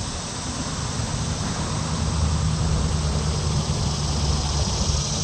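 A road vehicle passing, its low engine and tyre rumble building about a second in and strongest for the next few seconds.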